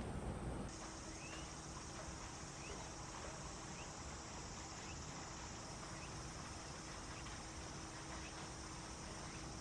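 Steady outdoor ambience: an even hiss with a faint low hum, and faint short rising chirps about once a second, the kind of sound small birds or insects make.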